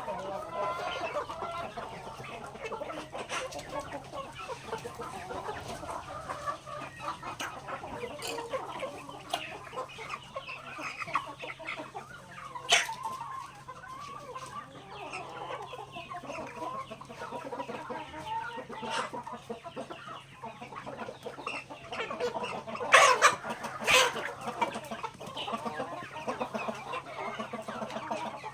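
A flock of chickens clucking continuously while feeding on grain, with scattered sharp taps of beaks pecking. One louder knock comes about halfway through, and two more come a second apart later on.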